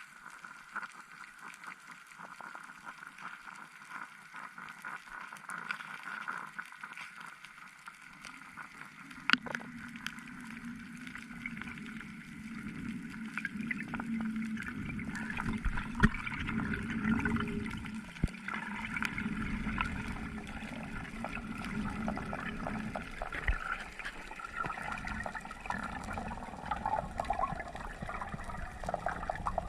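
Water sloshing and gurgling around the camera, fainter for the first nine seconds, then, after a sharp click, a louder and deeper rush of water with small clicks and pops.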